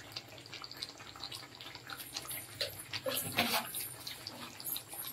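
Chicken and masala sizzling in a hot kadhai with fine crackling as they fry, and a louder burst of stirring noise about three seconds in.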